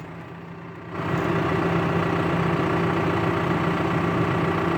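Engine idling steadily, rising in level about a second in and then holding even.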